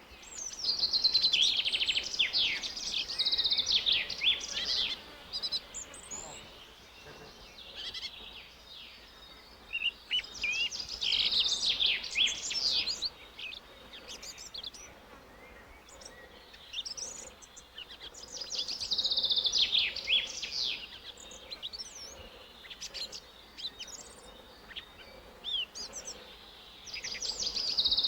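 A songbird singing: bursts of rapid, high chirping notes lasting a few seconds each, repeated about every eight to nine seconds with quieter gaps between them.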